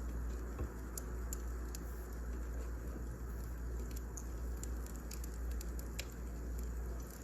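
Wood fire crackling in a fireplace: a steady low rumble with scattered sharp pops and crackles.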